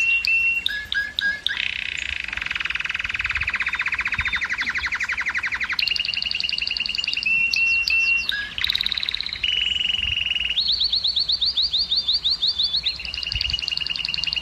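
Domestic canary singing a continuous song of rapid trills, each phrase a run of quickly repeated notes that switches to a new phrase every second or two, with one long fast trill in the first half.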